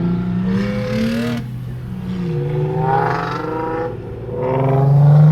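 Car engine running and being revved, its pitch dropping about two seconds in and rising again to its loudest near the end.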